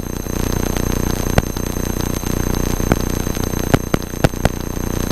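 Cessna 172 cockpit drone, heard through electrical interference: a steady hum with several fixed high whines, broken by irregular sharp clicks.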